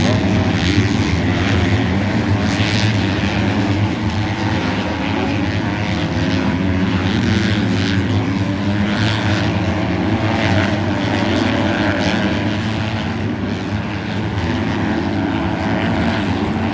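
A pack of 250-class motocross bikes racing, many engines revving and overlapping in a continuous drone that swells and fades as riders pass.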